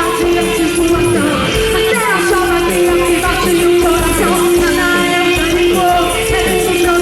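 Live rock band playing a song loudly, with a singer over amplified guitars.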